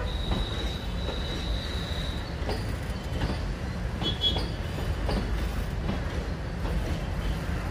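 Passenger train coaches rolling past close by: a low rumble of wheels on the rails with irregular clacks as the wheels cross rail joints. A thin, high steady squeal runs for about the first two seconds, and a shorter squeal comes about four seconds in.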